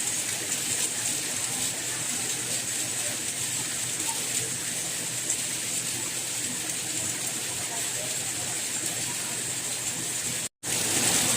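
Steady rain: an even hiss of rainfall with no single drops standing out, broken by a split-second gap of silence near the end.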